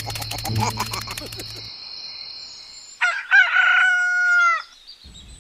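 A rooster crows once, a single long crow about three seconds in.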